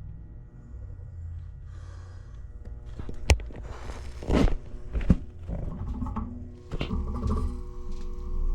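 Air handler's failing blower motor humming steadily without properly running, a sign of a bad blower motor. Several sharp knocks and thuds come in from about three seconds in.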